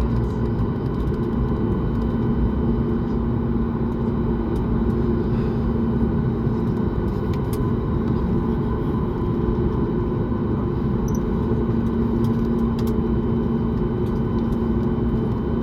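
Steady rumble and hum inside an airliner cabin on the ground after landing, with a constant low tone from the engines and air system and a few faint clicks.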